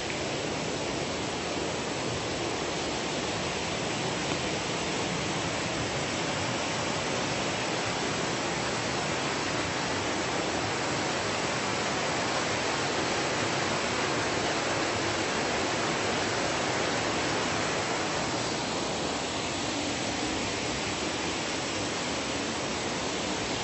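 Waterfall crashing down, a steady, unbroken rush of falling water.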